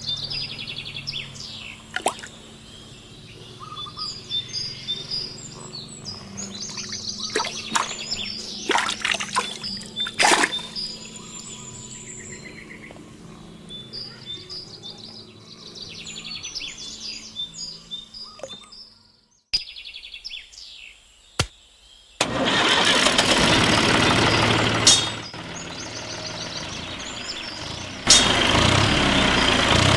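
Birds chirping over a low steady hum, with scattered clicks and taps. After a short break about two-thirds of the way through, a loud steady rushing noise comes in, drops back, and returns near the end.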